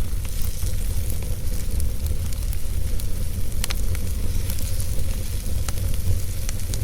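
Wood fire in a fireplace burning with a steady low rumble and scattered crackles and pops, one sharper pop a little past halfway.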